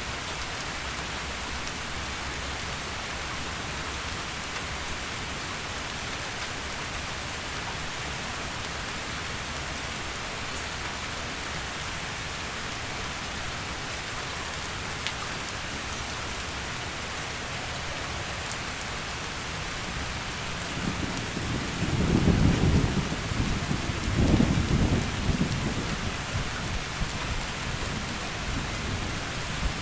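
Heavy rain falling steadily, with a low rumble of thunder rolling in about two-thirds of the way through, loudest for a few seconds, then dying away.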